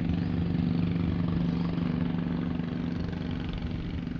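Engine running steadily at an even speed, a low drone.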